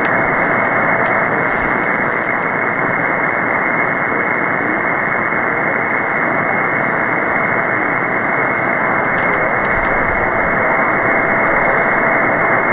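Shortwave receiver hiss on the 20-metre band in upper-sideband mode with no readable station: a steady rushing noise, cut off sharply by the receiver's narrow audio filter, with a faint steady whistle of a carrier beneath it.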